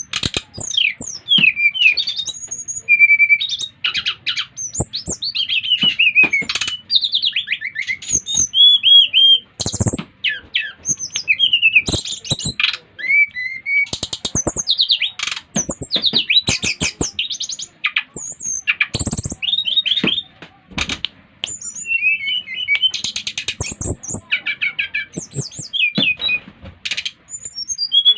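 SRDC (sikatan rimba dada coklat, a jungle flycatcher) songbirds singing in a fast, continuous run of varied chirps, quick sweeping whistles and short harsh notes, one bird's song set against the others'.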